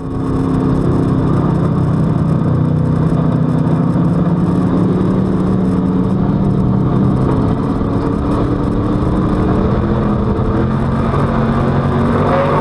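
Street stock race car's V8 engine heard from inside the car at racing speed. The engine note is loud and steady, dips slightly in pitch through the middle and climbs again near the end.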